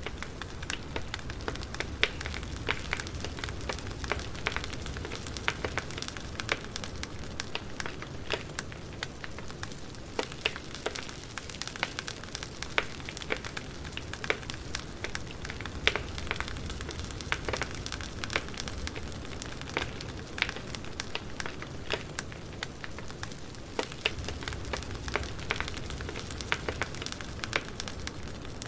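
Campfire crackling: a steady hiss of burning wood with frequent, irregular sharp pops and snaps throughout, over a low rumble.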